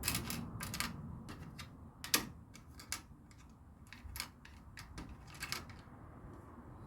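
Small plastic LEGO pieces clicking and tapping as they are picked up and gathered: a quick run of light clicks in the first second, then single clicks every second or so.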